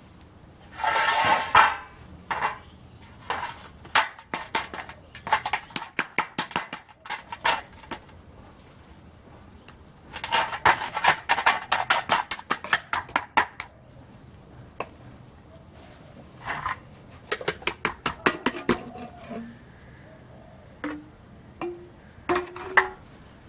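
Bursts of scraping, clattering and clinking, many quick clicks at a time, as a small brass casting is broken out of a sand mould of fine sand bonded with ATF and the sand is knocked off the metal.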